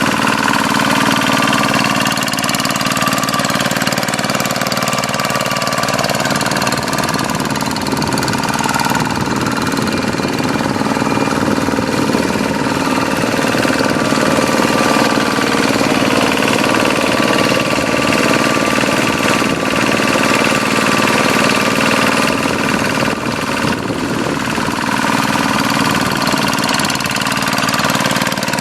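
Hand tractor's single-cylinder diesel engine running steadily, plowing a wet rice paddy.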